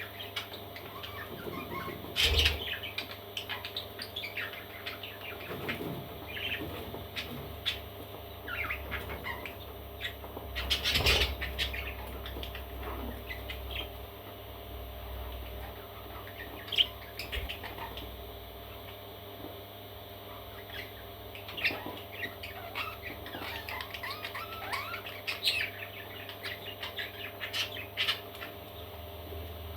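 Parrot chicks chirping and squeaking in short, scattered calls, with two louder rustling bursts, about two seconds in and about eleven seconds in.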